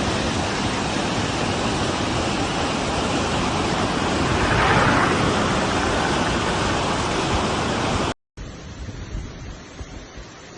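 Steady, loud rush of water, swelling a little about halfway through, then cutting off abruptly about eight seconds in. After the cut, a much quieter rushing noise carries on.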